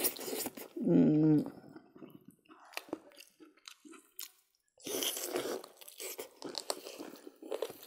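Close-up mouth sounds of several people chewing and smacking on pork, greens and rice eaten by hand, with wet clicks and slurps. About a second in there is a short voiced hum, the loudest sound.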